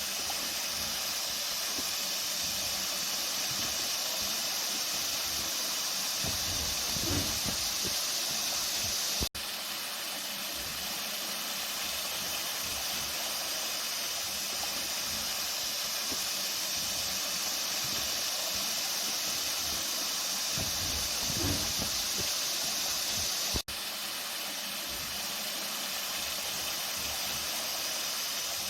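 Flowing water rushing steadily, an even hiss that drops out for an instant twice.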